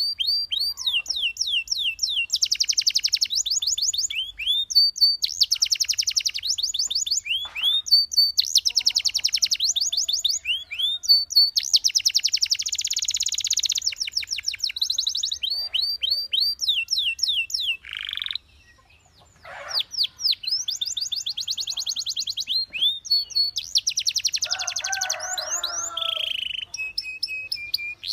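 Belgian canary singing a long, continuous song of fast trills and rolls: rapid runs of repeated high notes and sweeping slides, with a brief pause about two-thirds of the way through.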